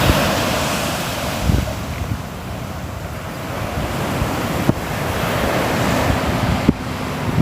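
Ocean surf, waves washing in and easing off again, with wind buffeting the microphone in low thumps.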